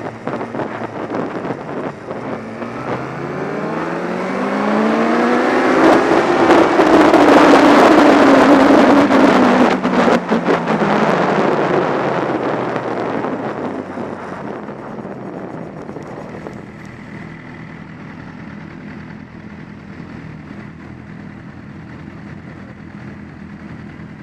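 Motorcycle engine accelerating hard, its pitch climbing for several seconds with wind rushing loudly over the microphone, then easing off and slowing to a steady, quieter run.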